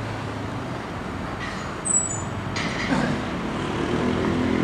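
Steady background traffic noise, with a brief high squeal about two seconds in and a low engine hum building near the end.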